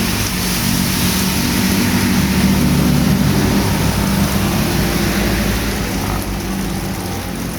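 A motor vehicle's engine passing by on a street, loudest about three seconds in and then fading, over the steady hiss of heavy rain.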